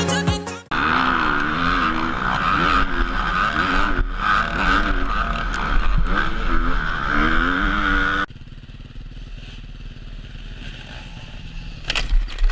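Motocross bike engines revving up and down as riders race, cutting abruptly about eight seconds in to a quieter engine drone, with a brief sharp clatter near the end.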